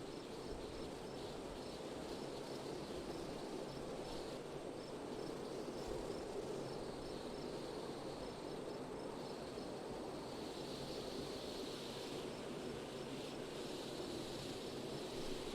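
Steady wind blowing, with a cricket chirping in quick, even pulses of about three a second that come and go.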